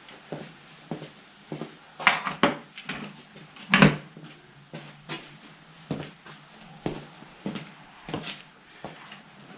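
Tools and small metal parts being handled during motorcycle handlebar disassembly: a string of light clicks and knocks, with two louder clanks about two seconds and about four seconds in.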